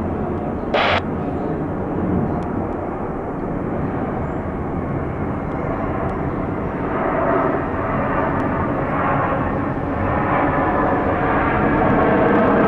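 Jet engines of a UPS Boeing 767-300F freighter running steadily as it arrives, a broad continuous jet noise that swells about seven seconds in and again near the end. A short hiss about a second in.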